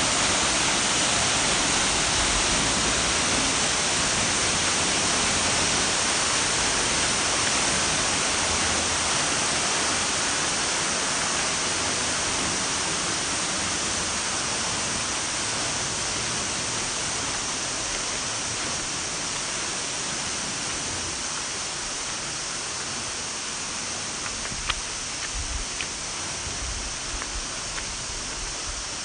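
Waterfall: a steady, dense rush of falling water that slowly grows a little fainter, with a couple of faint clicks near the end.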